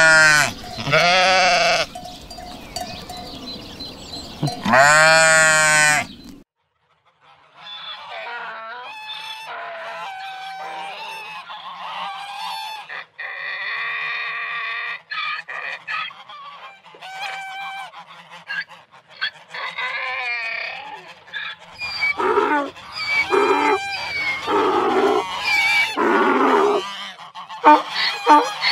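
Sheep bleating, two long wavering calls in the first six seconds. After a brief silence, a flock of domestic waterfowl calls in many short overlapping honks, louder near the end.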